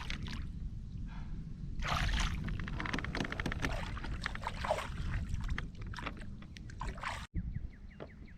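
Water sloshing and gurgling around a fishing kayak, with many small clicks and knocks of handling on board over a steady low rumble.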